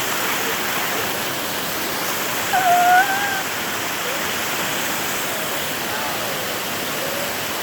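Steady rush of falling water from a jungle waterfall. About two and a half seconds in, a short high call rises briefly over it.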